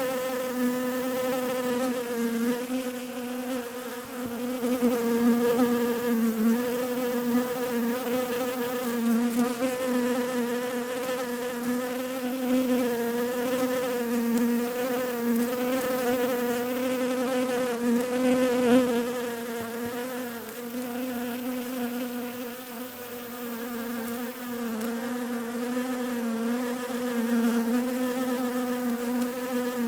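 Bees buzzing in a continuous, wavering hum on a low steady note.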